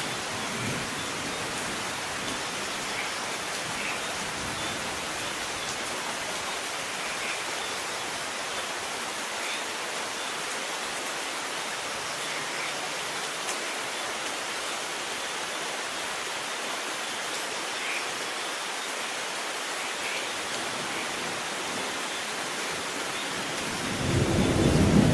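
Steady rain falling, an even hiss. Near the end a low roll of thunder begins to build.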